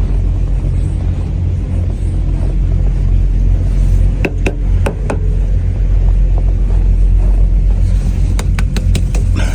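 Semi-truck's diesel engine running with a steady low rumble. A few sharp clicks come about halfway through, and a quick run of clicks near the end.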